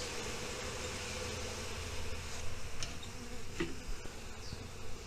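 Many honeybees flying around a newly installed hive, a steady buzzing hum, with a few short high chirps and a couple of light clicks over it.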